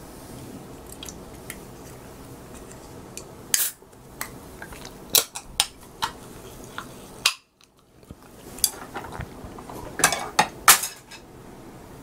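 Cutlery clinking against dishes during a meal: several sharp, separate clicks, thickest near the end, with a brief moment of silence midway.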